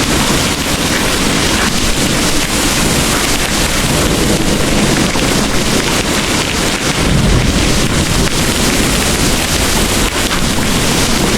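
Heavy rain pouring in a steady, dense hiss, with a deep rumble underneath.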